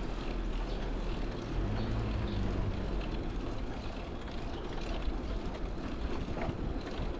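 Wind rush and road rumble from riding a bicycle, a steady noisy roar heaviest in the low end, with a brief low hum about two seconds in.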